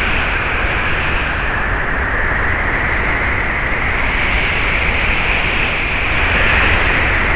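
Wind sound effect: steady blowing wind with a deep rumble underneath and a hissing, whistling band whose pitch slowly sinks and rises. It swells slightly near the end.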